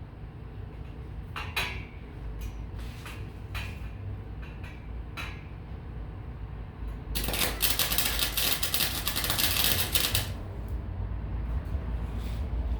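Scattered metal taps and clicks, then about three seconds of dense crackling from a welding arc laying a bead, over a steady low hum.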